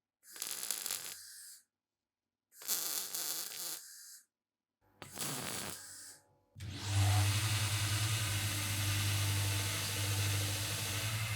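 Three short rasping bursts, each about a second and a half with silence between, then an electric power tool starts about two-thirds of the way in and runs steadily with a low hum and a hiss.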